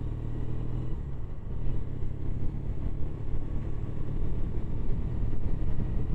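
Triumph Bonneville's parallel-twin engine running steadily as the motorcycle is ridden along, with a deep continuous rumble.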